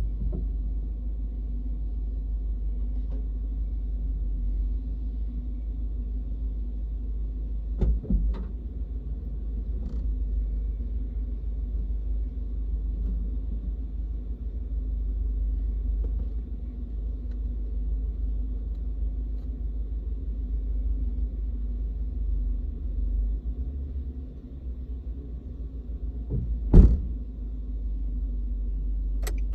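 Steady low rumble of a car's engine idling, with two short knocks or thumps, one about 8 seconds in and a louder one near the end.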